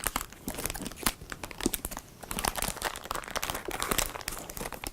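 Blind-bag toy packet being crinkled and opened by hand, a busy run of crackling and rustling.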